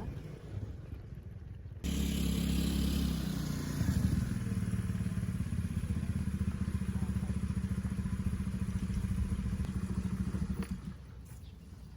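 Motorcycle engine running steadily. It comes in suddenly about two seconds in, gets a little louder around four seconds, and stops about eleven seconds in.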